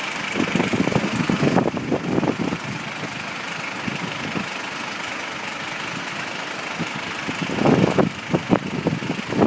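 Steady rushing of the flooded River Bride, with louder irregular low rumbles near the start and again near the end.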